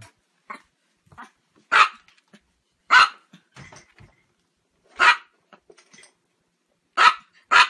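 A small Chihuahua barking: sharp, high yaps one at a time with pauses between, the last two close together near the end.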